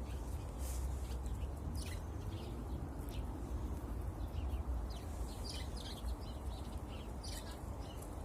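Sparrows chirping in short, scattered high chirps over a steady low rumble.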